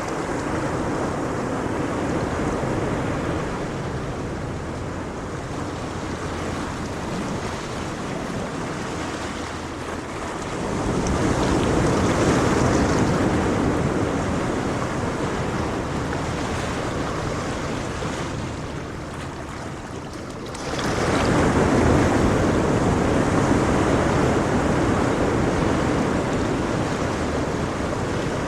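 Ocean waves washing ashore in a steady hiss, with two bigger waves surging in, one about a third of the way in and another about two-thirds in.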